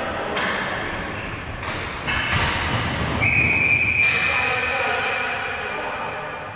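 Echoing knocks and thuds of play in a large hall, then a single high steady whistle-like tone starting about three seconds in, loud for about a second and then fading away, with voices underneath.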